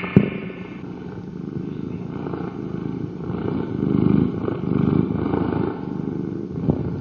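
A cat purring: a low, grainy rumble that swells and fades in slow cycles with each breath, after a sharp click at the very start.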